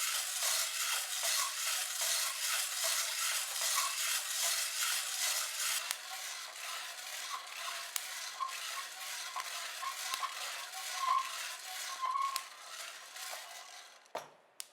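Coffee beans being stirred in a pan during home roasting: a rhythmic rattling scrape of beans against the pan, quieter from about halfway through with scattered sharp clicks, cutting off near the end.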